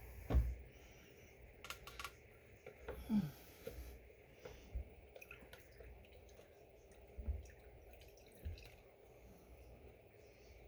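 Coolant dripping and trickling from a disconnected radiator hose, with scattered light clicks and a few soft knocks from hands and parts being handled.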